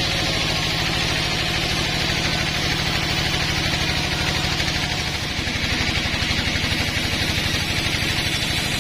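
Sawmill engine running steadily at idle with an even, fast low pulse.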